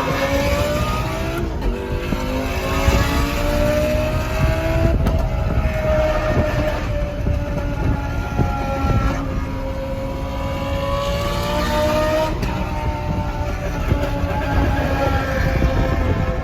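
Lamborghini Gallardo Superleggera's 5.0-litre V10, fitted with an aftermarket exhaust, pulling under way. The engine note climbs in pitch, then drops back at several gear changes, and it is loud inside the car.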